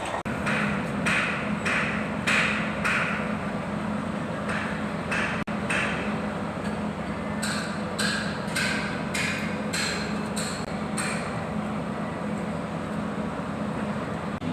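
A hammer striking metal again and again, each blow ringing briefly: a loose series in the first half, then a steadier run of about two blows a second. A steady low hum runs underneath.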